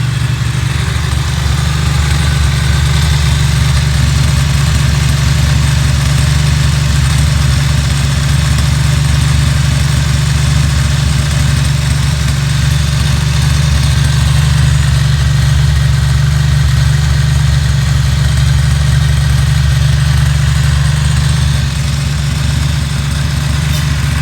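Ducati Monster 900's air-cooled 90-degree V-twin engine idling steadily.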